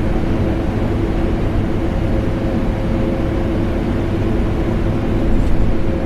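Vacuum cleaner running steadily, layered with air-conditioner noise: a constant drone with a steady hum tone through it.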